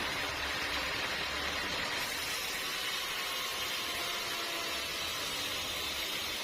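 Sawmill machinery running steadily: an even hissing noise with a low hum underneath that fades in and out.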